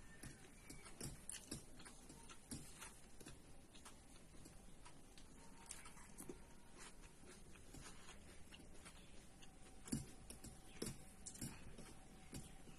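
Faint scattered clicks and smacks of someone eating, with a sharper click about ten seconds in.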